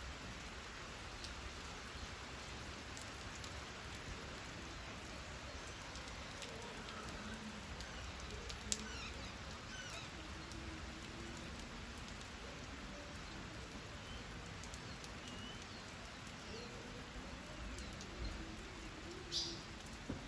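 Steady hiss of rain falling, with a few short bird chirps scattered through it and a single sharp click about nine seconds in.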